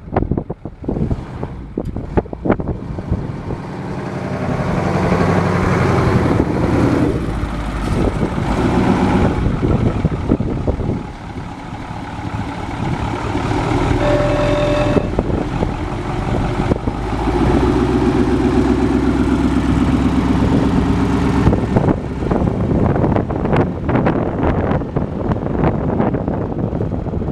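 1984 International Harvester 1754 dump truck's engine running and revving. It comes up about four seconds in, drops back briefly near the middle, then rises again. Wind buffets the microphone at the start.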